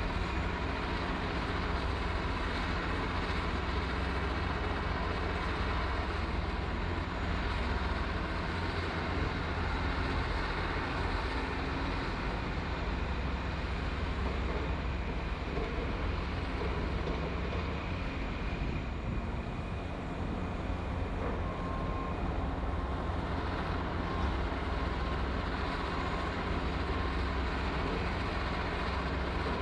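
Heavy diesel construction machinery running steadily, a deep continuous engine rumble.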